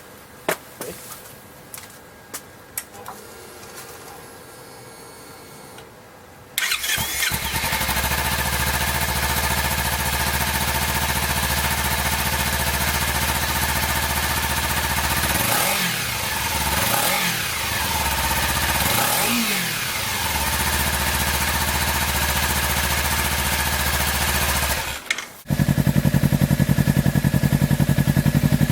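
Kawasaki Ninja 300's parallel-twin engine through a Two Brothers M-2 carbon fibre slip-on exhaust: a few faint clicks, then the engine starts up about six seconds in and idles steadily. It is blipped three times in quick succession past the middle. Near the end it briefly drops away and comes back louder.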